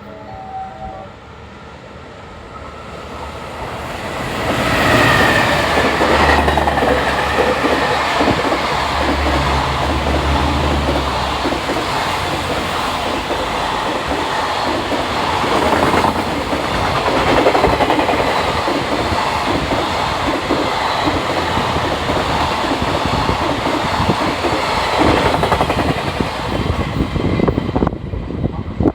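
A freight train hauled by a JR Freight EF210 electric locomotive approaching and passing at speed, the locomotive's brief falling whine about five seconds in, then a long run of wagons clattering over the rails. The sound swells about four seconds in and stays loud until near the end.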